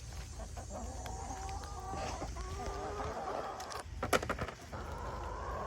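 A flock of backyard hens clucking and calling, with a few sharp clicks or knocks about four seconds in.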